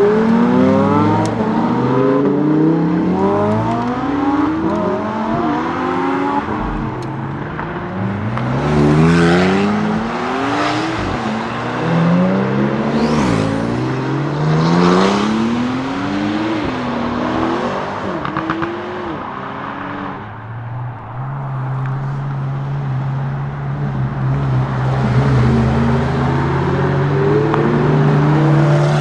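Lamborghini Huracán STO's naturally aspirated V10 accelerating hard, its note climbing and dropping back with each upshift, over several runs through the gears. In the last third the engine holds a steady note, which begins to rise again near the end.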